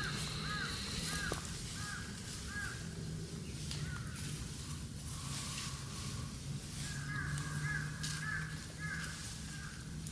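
Runs of short, repeated animal calls, each rising and falling in pitch, about two or three a second: one run at the start and another about seven seconds in.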